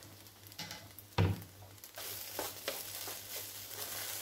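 Wooden spoon stirring and scraping bread, chouriço and bacon frying in oil in a nonstick pot, with sizzling that grows louder from about two seconds in. One loud knock about a second in, with a few lighter clicks of the spoon after it.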